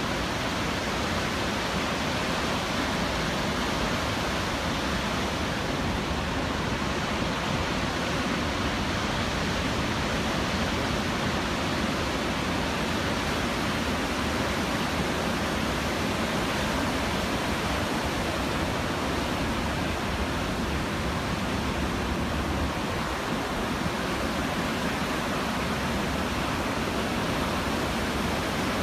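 Constant roar of heavy post-typhoon surf at the shore, an even noise with no breaks or rhythm.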